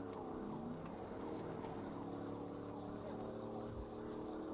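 Patrol car engine running at pursuit speed with road noise, its pitch dropping in the first second and then holding steady.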